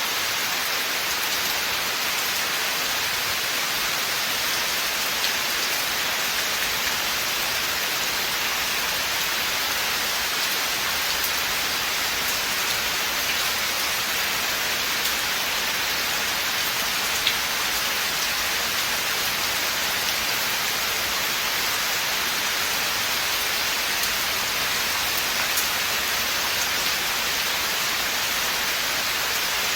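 Steady rain falling through a forest, a dense even hiss of drops with occasional single drops ticking out louder.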